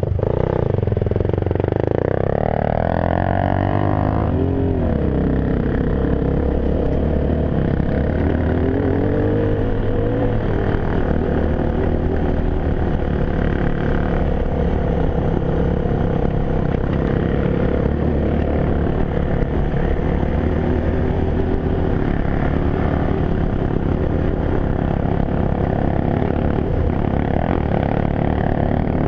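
Enduro motorcycle engine under way: revs rise and fall for the first few seconds, then it runs at a fairly steady pitch.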